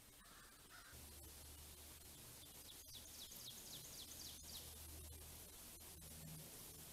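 Faint birdsong: a quick series of about ten high, descending notes lasting about two seconds, a few seconds in, over a low steady hum.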